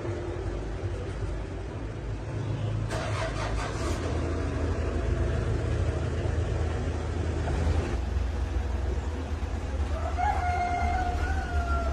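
A rooster crows once near the end, one call of just under two seconds, over a steady low engine-like rumble. A short burst of metallic clinks comes about three seconds in.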